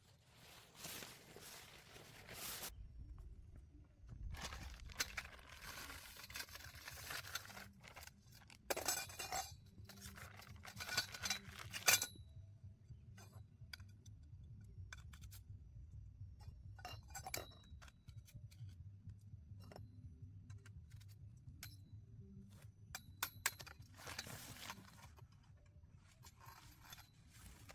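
Cookware and utensils being handled: scattered light clinks and scrapes, a few ringing briefly, between stretches of rustling.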